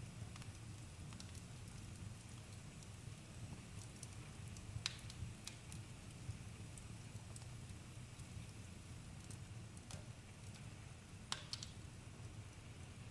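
Campfire crackling: scattered small snaps over a low steady rumble, with two sharper pops, one about five seconds in and one near the end.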